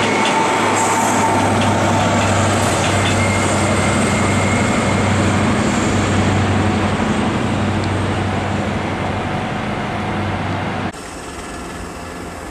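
An InterCity 125 high-speed train running past, with a steady low drone from its Class 43 diesel power car over the rumble of wheels on the rails. About eleven seconds in, the sound cuts off abruptly to a much quieter station background.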